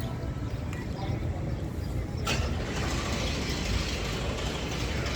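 A vehicle engine rumbling low and steady. About two seconds in a sharp click is followed by a louder, steady hiss.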